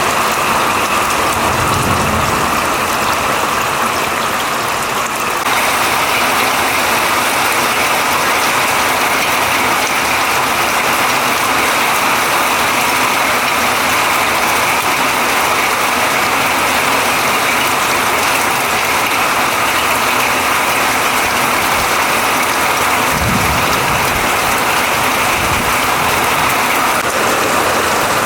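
Heavy downpour of rain pelting down steadily, growing a little louder and harsher about five seconds in. A low rumble comes in briefly about two seconds in and again near the end.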